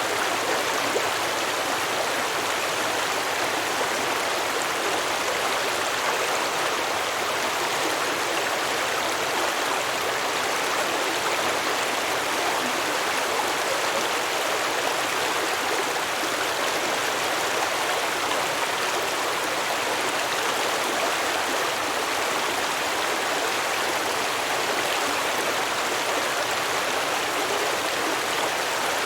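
Stream water flowing and babbling over rocks, a steady rushing sound with no change.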